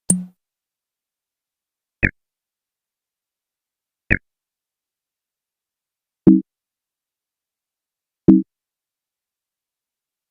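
A run of five short, separate sound effects about two seconds apart, each in silence: a brief knock at the start, two sharp clicks, then two short low thuds.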